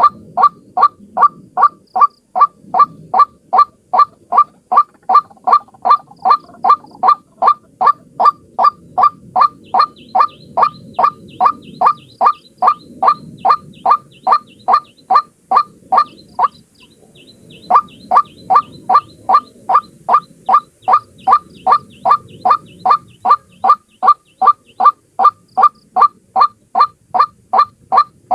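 A single white-breasted waterhen (ruak-ruak) calling a long run of short, identical notes, about three a second, with one pause of about a second past the middle.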